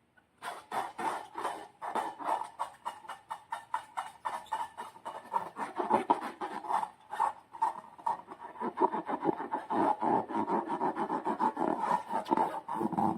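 Slime being squeezed and worked by hand, with balloon rubber in play, giving a fast, uneven run of wet squelches and sticky clicks. The squelches get deeper and fuller about halfway through.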